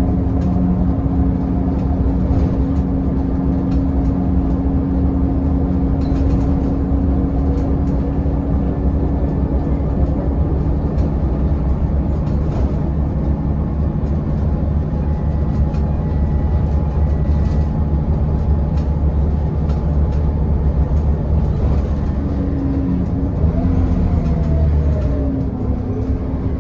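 Scania L94UB city bus's diesel engine running at a steady cruise, heard from on board, with occasional short rattles. Near the end the engine pitch bends up and down as the speed changes.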